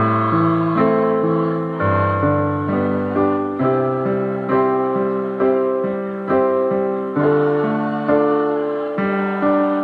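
Piano or electric keyboard playing sustained chords, a new chord struck about once a second and fading before the next.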